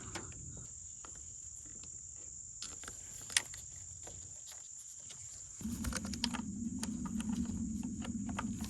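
Scattered light clicks and taps of hand tools as a 10mm bolt is put back on an ignition coil, with one sharper click about three and a half seconds in. A low hum comes in a little past halfway, and a steady high-pitched whine runs underneath.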